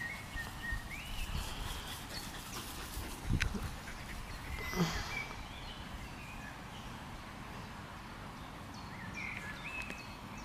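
Quiet open-air meadow ambience with birds calling a few times, short whistled notes that slide up and down. Two brief knocks stand out near the middle.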